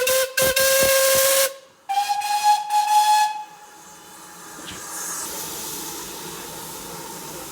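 Steam locomotive whistle blowing with steam hiss. A lower-pitched blast cut by a few brief breaks runs up to about a second and a half in. Then a higher-pitched blast sounds from about two seconds in and lasts about a second and a half, followed by a quieter steady hiss.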